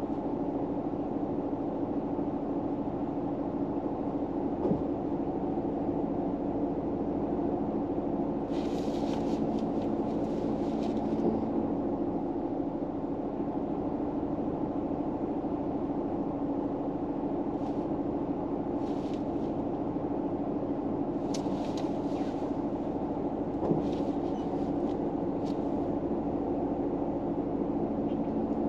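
Steady low hum inside a car, with a few brief rustles over it about a third of the way in and again in the second half.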